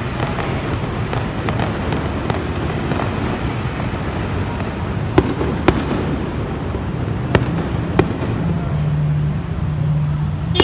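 Fireworks and firecrackers going off: a continuous rumble of bangs, with a few sharp, close cracks in the second half.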